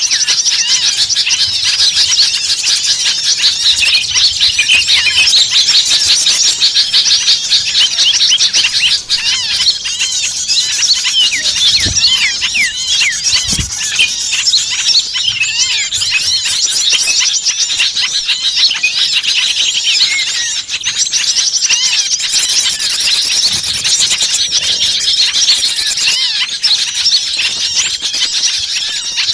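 Bird-lure recording: a dense chorus of many small birds calling at once, with rapid high-pitched chirps, trills and squeals packed together without a break. It is an agitated mixed-flock clamour, played to draw small birds in.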